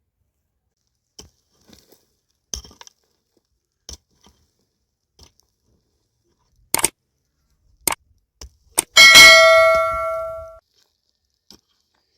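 A few light clicks and two sharp knocks, then a metal object struck once, loudly, ringing with several tones that fade out over about a second and a half.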